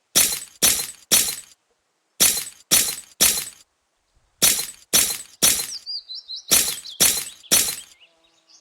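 Sharp, loud impacts in evenly timed sets of three, about half a second apart, with a pause of roughly a second between sets. A bird chirps faintly about six seconds in.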